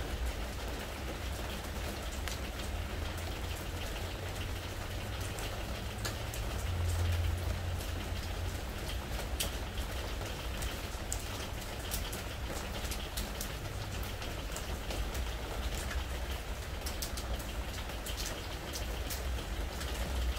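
Spring rain falling on a preservative-treated wooden deck: a steady patter with frequent sharp ticks of single drops. A low rumble runs underneath and swells briefly about seven seconds in.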